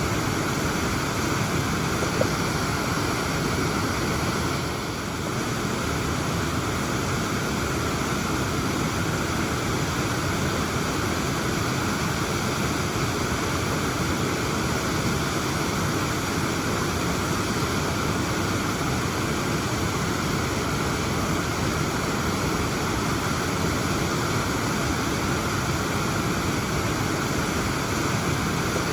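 Waterfall rushing steadily: the constant roar of falling water.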